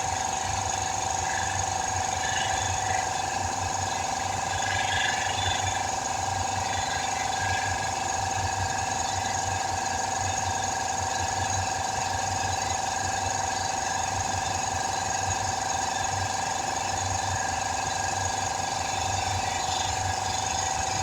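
Air compressor running steadily, its pump pounding rapidly under a constant whine. The owner believes its bearings are nearly worn out.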